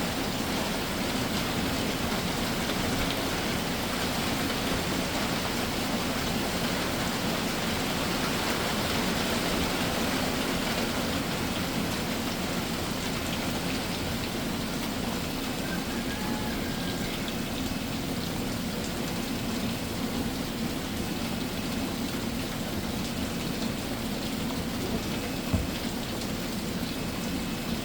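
Summer rain shower falling steadily, with a single sharp tap about 25 seconds in.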